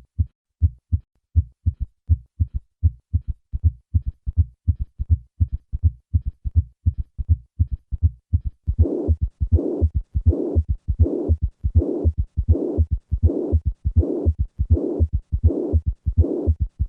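Heart sounds at a steady rate of about one and a half beats a second: low thuds of the first and second heart sounds, with extra third and fourth heart sounds added to each beat. About nine seconds in, a loud rushing murmur joins every beat. This is the murmur of acute mitral regurgitation from a ruptured chordae tendineae.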